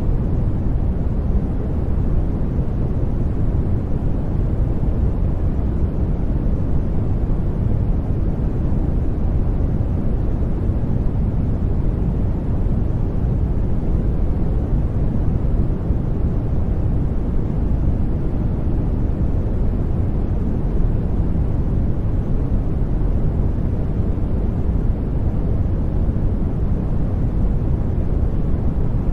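Steady generated noise, unchanging throughout, deep and weighted toward the low end with little top-end hiss.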